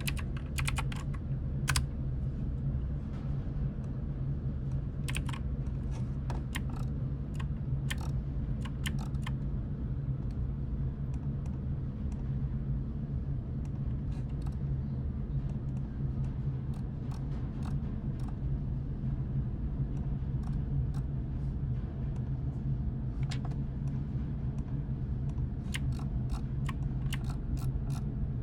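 Computer keyboard typing in short, scattered runs of key clicks, with a cluster about a quarter of the way in and more near the end, over a steady low hum.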